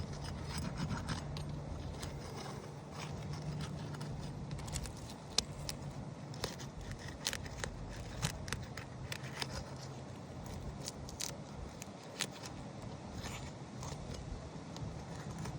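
Shingle snake tool scraping and clicking against asphalt roof shingles as it is worked under them: scattered small clicks and scrapes over a steady low hum.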